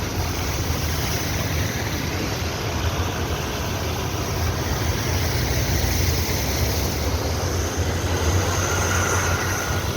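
Steady road traffic noise: vehicle engines running with a low hum.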